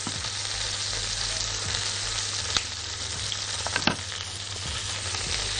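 Steady sizzle of a whole chicken and vegetables frying in a pot, with a couple of sharp clicks about two and a half and four seconds in.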